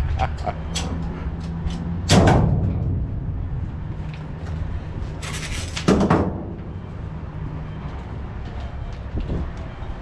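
Truck's diesel engine idling steadily, with two heavy thumps, about two and six seconds in, and a short hiss just before the second thump.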